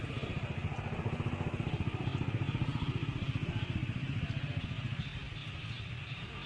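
A small engine running with a fast, even pulsing beat, getting louder toward the middle and easing off near the end.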